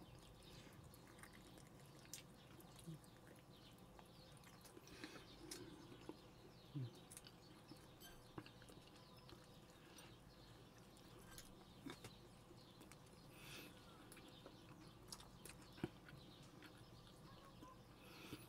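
Faint chewing and mouth clicks from someone eating quietly, over a low steady hum.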